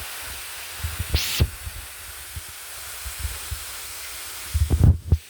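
Steady rushing hiss of a waterfall and its stream, overlaid by irregular low thumps and rumbles of wind or handling on the phone microphone, loudest about a second in and again near the end.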